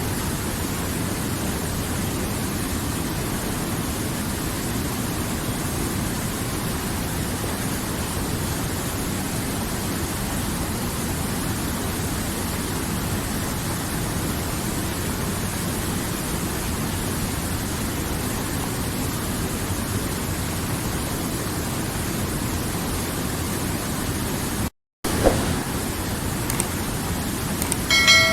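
River water flowing in a steady, even rush. Near the end the sound cuts out for a split second, then comes a click and a short pitched tone.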